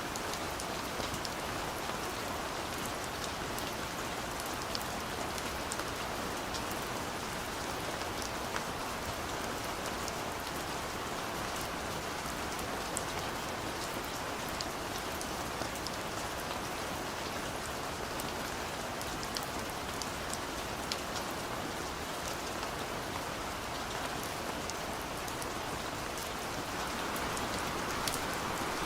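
Steady rain falling, with scattered sharper drop impacts.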